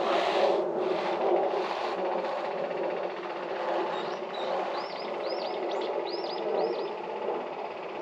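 A bird calls a quick run of about six short, arching notes starting about four seconds in, over a steady background noise.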